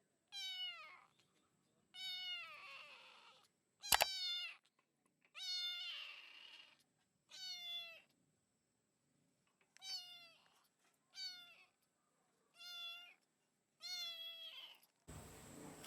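A cat meowing repeatedly, about nine meows roughly every second and a half, each falling in pitch. A sharp knock sounds once about four seconds in.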